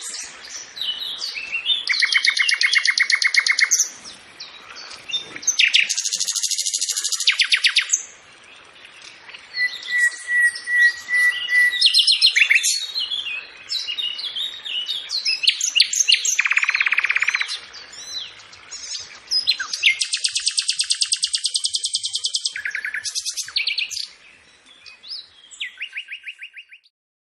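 Songbird song: a series of fast, rapid trills of evenly repeated high notes, each lasting one to two seconds, with quick chirps and whistles between them.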